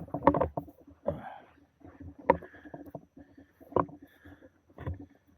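Footsteps scrambling up a loose sandy slope: irregular scuffs and crunches of feet in water shoes pushing into the sand, with several sharper knocks.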